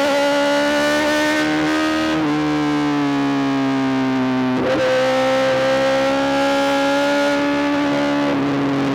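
Honda CBR1000RR-R SP inline-four engine through a full Arrow GP exhaust, running under way with a steady pitched note that drifts slowly and breaks twice, at about two seconds and four and a half seconds in, as gears change.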